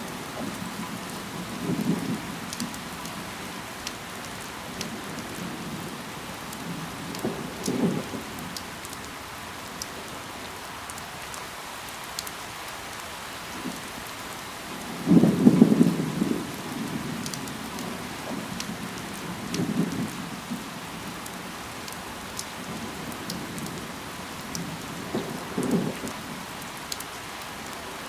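Steady rain falling, with scattered sharp drop ticks. Short low rumbles come five times, the loudest about halfway through.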